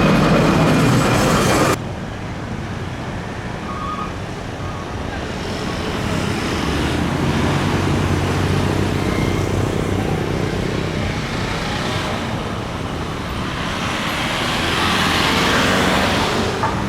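Steady rumble and roar of airliner jet engines mixed with outdoor traffic noise. The sound drops abruptly to a quieter level about two seconds in, then swells again with rising hiss near the end.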